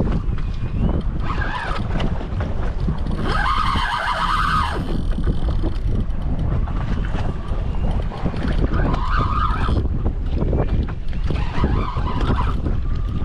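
Strong wind buffeting the microphone aboard a boat at sea, a constant low rumble, with several louder rushing bursts; the biggest comes about three to five seconds in.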